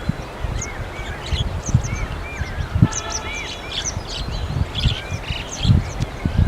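Several small birds chirping and calling, with many short, overlapping high chirps and repeated arched call notes, over an irregular low rumble.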